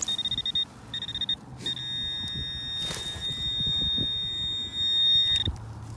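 Handheld pinpointer probe buzzing on a metal target in the dig hole, a high electronic tone. It starts in rapid pulses, then holds steady for about four seconds, and cuts out before pulsing briefly again at the end.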